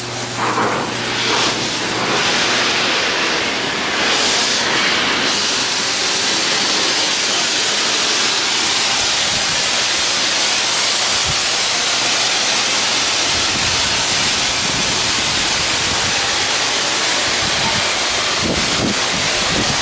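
Loud, steady hiss that builds over the first two seconds and then holds, with irregular lower knocks and rumble coming in near the end.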